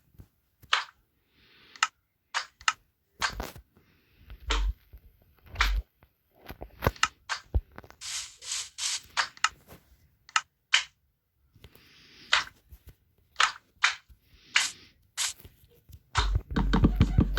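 Irregular sharp knocks and clicks of hard objects, with a run of short scraping strokes about eight seconds in and a busier, louder clatter near the end.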